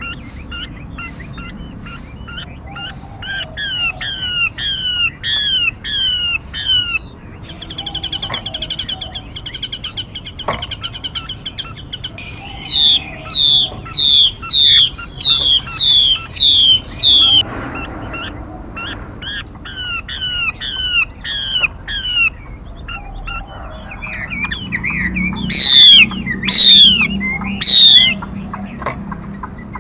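Female mi songbird calls played as a lure recording: runs of repeated sweeping notes at about two a second, a fast buzzy trill about eight seconds in, and three very loud sharp calls near the end.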